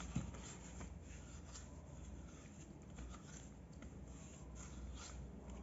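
Faint handling noises, light rubbing with a few soft clicks, over a low steady room hum.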